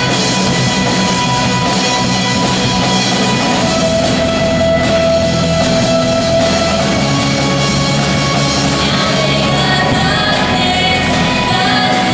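A band playing rock-style music with singing, including one long held note in the middle.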